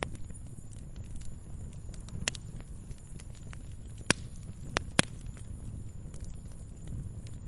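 Wood fire crackling: a steady low rumble with scattered sharp pops, the loudest three coming close together between about four and five seconds in.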